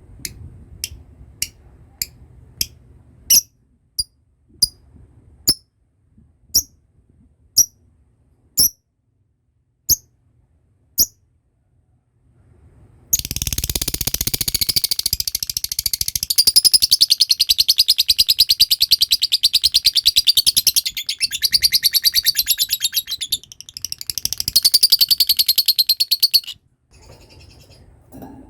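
Lovebird calling: single sharp high chirps about once a second, then a long, very rapid chattering trill, the 'ngekek' that lovebird keepers prize, lasting about thirteen seconds before it stops abruptly.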